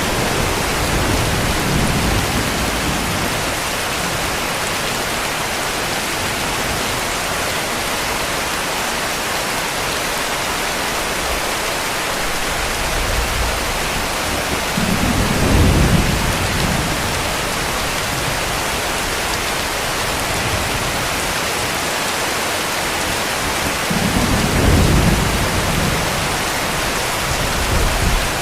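Steady heavy rain hissing, with distant thunder rumbling low twice, about halfway through and again near the end.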